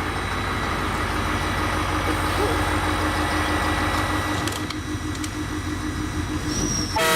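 Electric suburban train running, a steady hum with a constant low tone under the wheel and motor noise. A brief loud burst comes right at the end.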